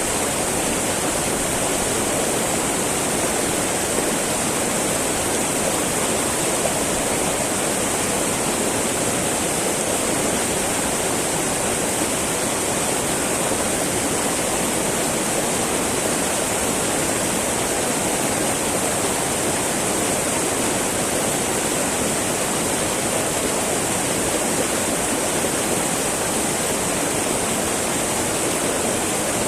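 Small mountain river babbling over rocks: a steady, unbroken rush of flowing water.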